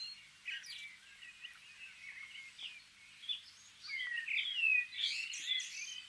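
Several small songbirds chirping and whistling at once, with many short overlapping notes and curving slurred whistles. The chorus is busiest and loudest about four to five seconds in.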